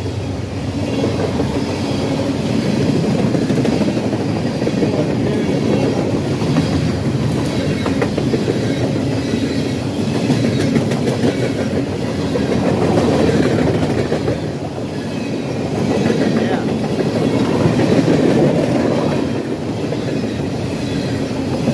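A train's railcars rolling past close by, steel wheels clattering rapidly over the rails in a loud, continuous rumble that swells and eases a little as the cars go by.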